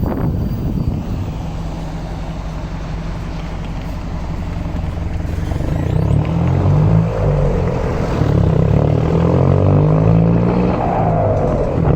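Mercedes-Benz LO 916 bus's OM924LA four-cylinder diesel engine running, quieter at first and then louder from about halfway, its pitch rising and falling as it works harder.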